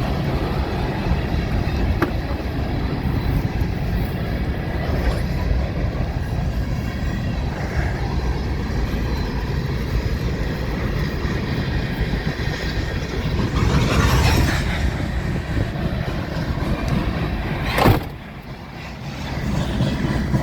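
Train passing close by at speed, a steady loud rumble of wheels on the rails. It swells about two-thirds of the way in, then peaks sharply and drops away for a moment near the end.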